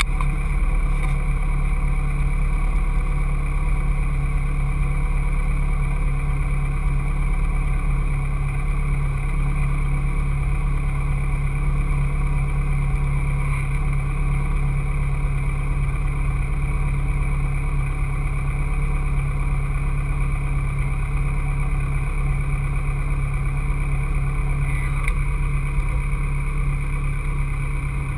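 Caterham Seven's engine idling steadily, heard close up from its open cockpit, with no revving.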